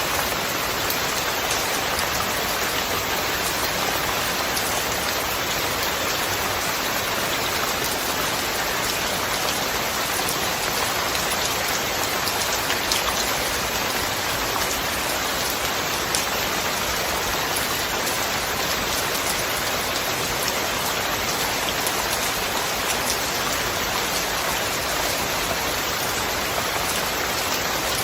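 Steady rain falling, with scattered single drops ticking through the even hiss.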